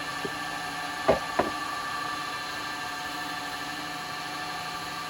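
Wood lathe running at steady speed, its motor giving a steady hum with a faint whine. Two sharp knocks come about a second in, close together.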